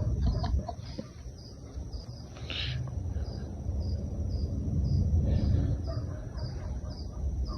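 An insect, likely a cricket, chirping steadily about twice a second over a low rumble, with a brief rustle about two and a half seconds in.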